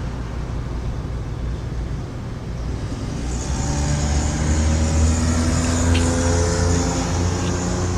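Steady rain noise; about three seconds in, a motor vehicle's engine hum and tyre hiss swell up, loudest around five to six seconds in.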